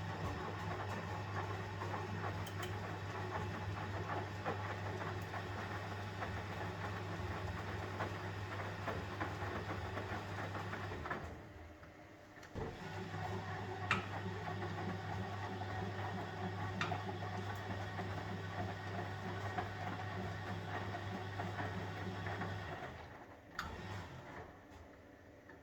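1971 Constructa Garant 491 washing machine's drum motor running the wash action: a steady motor hum for about eleven seconds, a short pause, then about ten seconds more before it stops again, the usual rhythm of a wash drum turning one way, then the other. A few light clicks sound over the hum.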